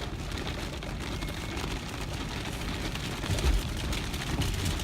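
Tropical-storm wind, rain and surf making a steady rush of noise, with low thumps of wind buffeting the microphone about three and a half seconds in.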